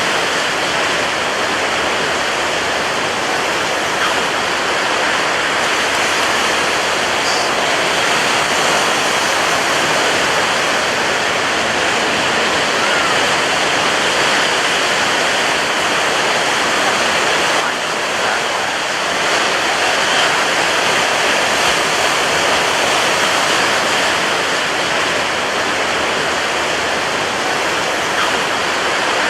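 Rough ocean surf breaking on a beach: a loud, steady rush of water noise with little rise and fall.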